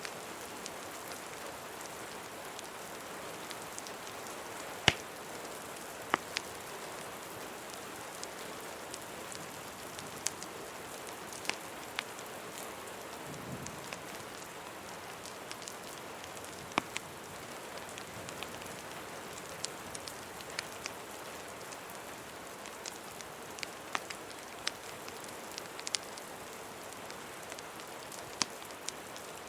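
Steady rain hiss layered with a crackling fireplace, whose scattered sharp pops break through now and then, the loudest about five seconds in.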